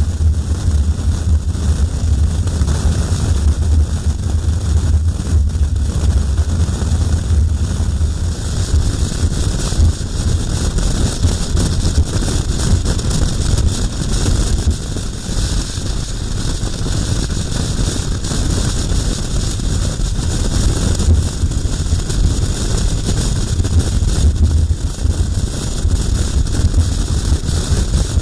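Wind buffeting the microphone while riding a KTM motorcycle at speed, over a steady low drone of engine and road. The sound is steady throughout.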